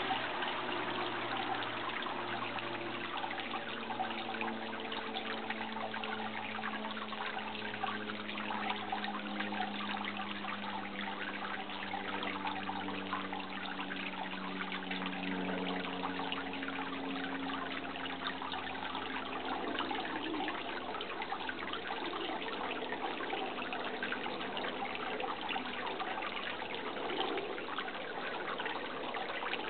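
Running water trickling steadily. A faint low hum drifts slowly in pitch during the first half and fades out about halfway through.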